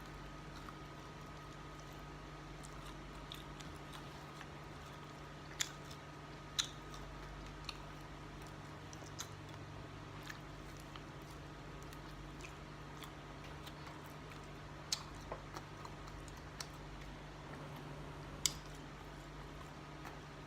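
Someone eating: faint, scattered clicks and smacks of chewing, a few sharper ones, over a steady low hum.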